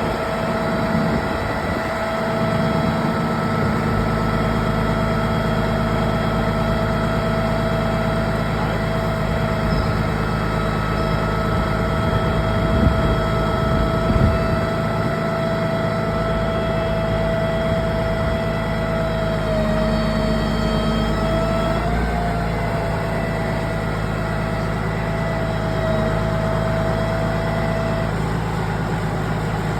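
Vehicle engine running steadily, probably the heavy vehicle moving the boat, with a steady whine above the engine's low hum.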